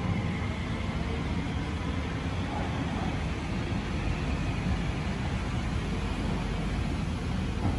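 Tokyo Metro Tozai Line electric trains at a station platform: one pulling away as another rolls slowly in, a steady low rumble of wheels on rail and traction motors.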